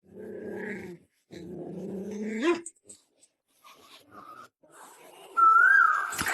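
A dog vocalizing: two low growling grumbles, the second sweeping up in pitch at its end, then a louder, higher whine near the end.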